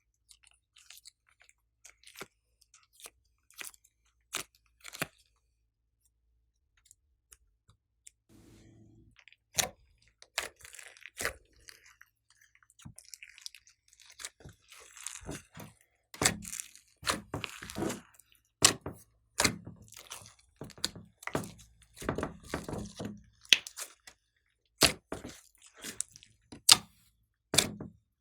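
Slime being squished and kneaded by hand, making sticky clicks and pops. Sparse at first, then quicker and louder for the second half.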